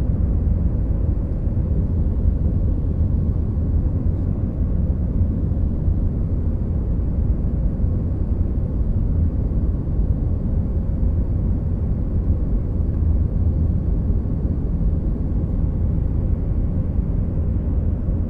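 Airliner cabin noise in flight: a steady low rumble of the jet engines and airflow, with a faint steady hum above it.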